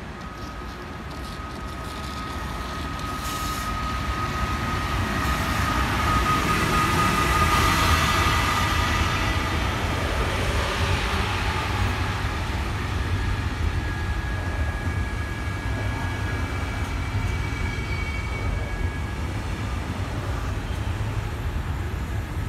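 SNCB electric passenger trains with double-deck coaches running through the station. Wheel-on-rail rumble builds to a peak about eight seconds in, then eases off, with steady high-pitched whining tones on top.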